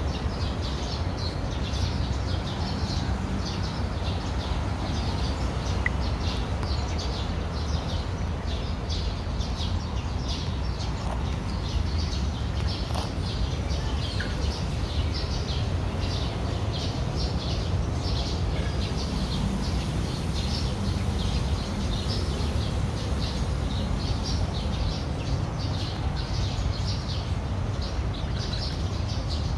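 Small birds chirping continually in quick repeated notes, over a steady low rumble.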